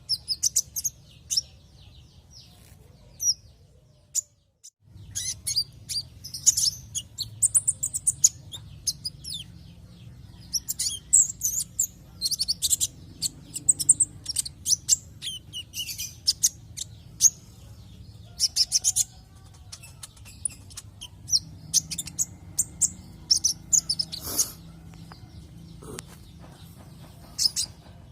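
Brown-throated sunbird (konin) singing: repeated bursts of high, rapid chirps and twitters over a low steady hum, with a brief dropout about four seconds in.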